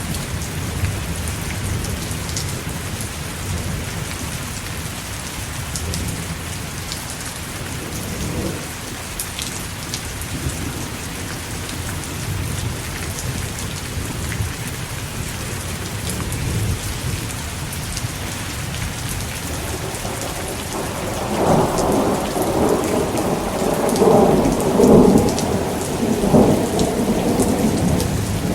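Thunderstorm: steady rain with thunder rumbling underneath. About three-quarters of the way through, a louder roll of thunder builds, swelling in several peaks to near the end.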